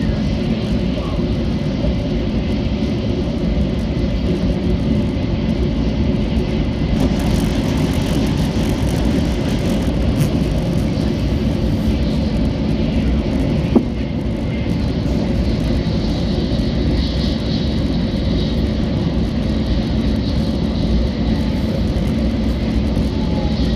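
Steady rumble and rush of a Shinkansen bullet train running at speed, heard from inside the passenger cabin. There is a single sharp click about 14 seconds in.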